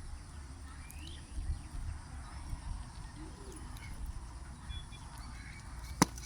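Faint bird calls, short rising chirps, over a steady low rumble, with one sharp click near the end.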